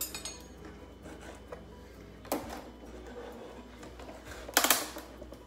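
Honda S2000 plastic tail light lens cracking and snapping as it is pried off its housing. A quick rattle of small clicks at the start, a sharp crack about two seconds in, and a louder crack near the end.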